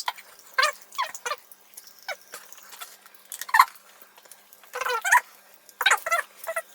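Short squeaky vocal yelps and squeals, about a dozen in an irregular string, made in reaction to Pop Rocks popping candy crackling in the mouth.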